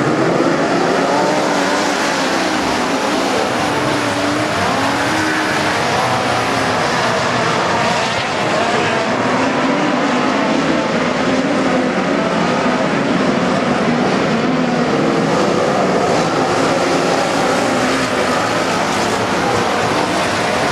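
Midget race cars' engines running hard as a pack laps the track, several engine notes overlapping and rising and falling in pitch as the cars go by.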